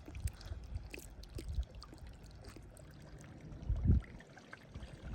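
Water trickling, under low rumbles and scattered clicks, with a heavy thump about four seconds in.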